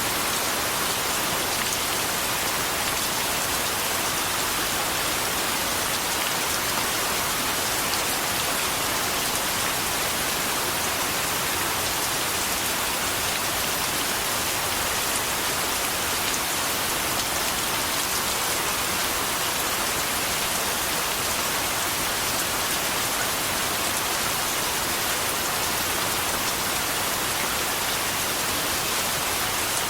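Steady, even rain falling and pattering on a surface, with no let-up or change.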